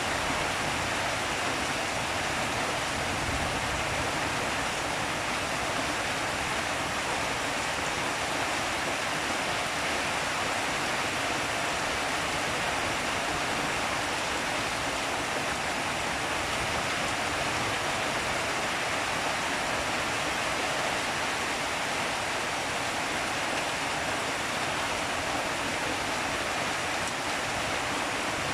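Steady rain falling, an even hiss that does not change and has no thunder or single drops standing out.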